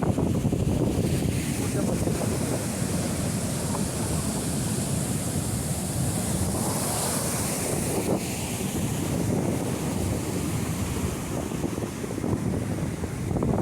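Sea waves breaking and washing on the shore, a steady surf rush, with wind buffeting the microphone.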